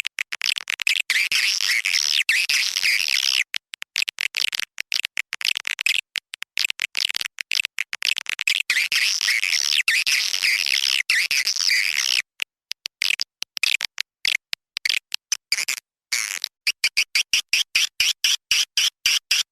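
Swiftlet lure call: recorded chirps of edible-nest swiftlets, dense high twittering cut into stretches by abrupt gaps. After about twelve seconds it thins to scattered clicks, then turns into a fast regular train of about four chirps a second near the end.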